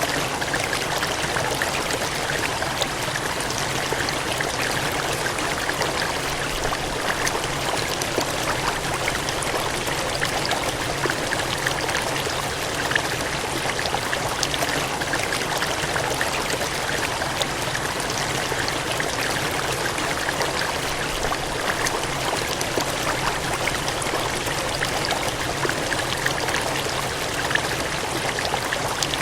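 Cascading water gushing in a steady, even rush with fine splashing detail.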